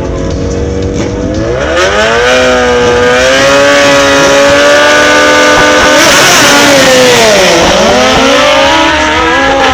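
Two Suzuki Hayabusa drag bikes' inline-four engines launching off the line: a low rumble, then the engine note climbs steeply about two seconds in and holds high at full throttle. Near the end the pitch dips sharply and climbs again.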